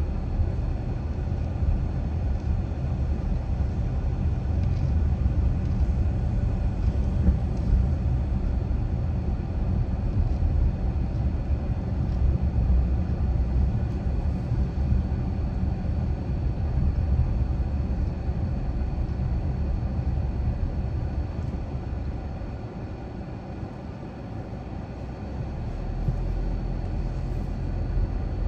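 Car driving along neighbourhood streets: a steady low road and engine rumble that eases off for a few seconds near the end and then picks up again.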